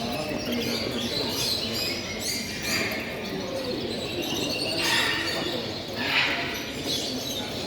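Many caged show birds chirping and calling over the steady chatter of a crowd of visitors, with a few louder calls about five and six seconds in.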